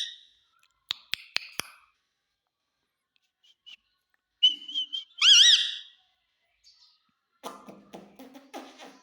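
Pet parrot whistling: a few small clicks about a second in, then a loud whistle that rises and falls in pitch about five seconds in, followed near the end by a short burst of harsher chatter.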